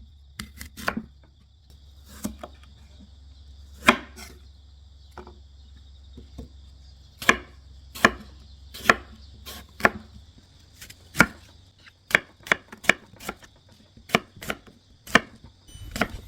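Knife chopping on a cutting board: about twenty separate, irregular strokes, coming quicker in the second half.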